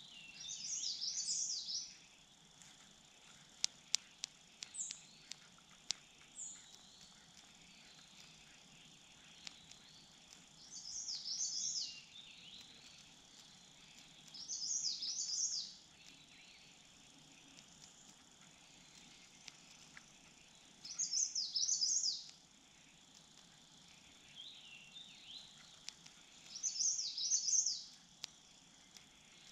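A songbird singing a short, high-pitched, warbling phrase of about two seconds, repeated five times with pauses of a few seconds between. A few sharp clicks sound near the start, over a faint steady high hum.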